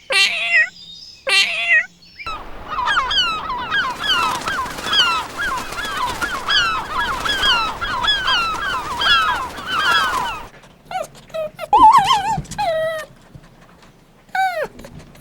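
Animals calling: a few separate calls, then a dense chorus of many short, overlapping high calls that stops suddenly about ten seconds in, followed by a few single calls.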